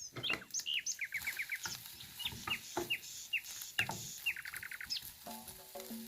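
Small birds chirping: many quick falling chirps and two fast runs of descending notes, with a few sharp clicks in between.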